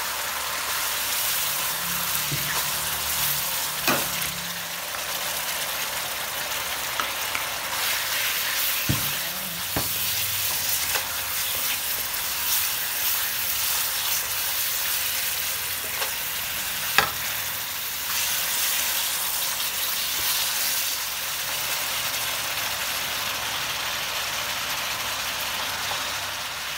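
Food sizzling in a hot wok as it is stirred with a wooden spatula: first the aromatics and sauce, then beef strips. A steady frying hiss with a few sharp knocks, the loudest about 17 seconds in.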